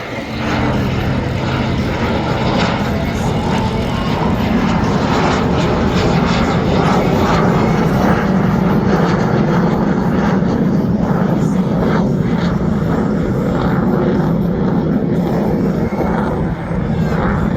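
F-16 fighter jet's engine passing low and slow at high angle of attack, then going to full afterburner for a near-vertical climb. It is a loud, steady jet rumble that builds in the first couple of seconds and then holds.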